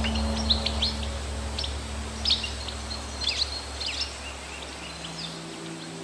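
Birds chirping: a string of short, quick calls every half second or so, over a low steady rumble that fades near the end.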